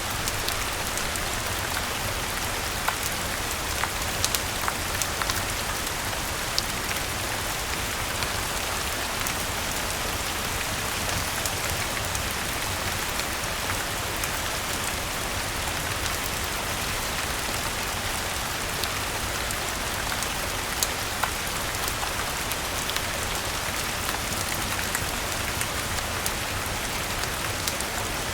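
Steady rain falling, an even hiss, with scattered sharp ticks and taps throughout.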